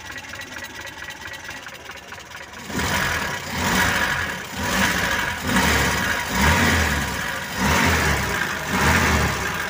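Mitsubishi Colt T120 engine idling, then revved in about five short blips, starting about three seconds in. The revs test the ignition timing just set at the distributor, listening for the rattling 'krek-krek' pinking knock that marks timing set too far.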